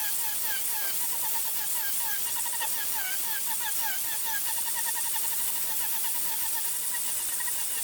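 Birds chirping in quick runs of short, falling notes, several a second, over a steady high hiss.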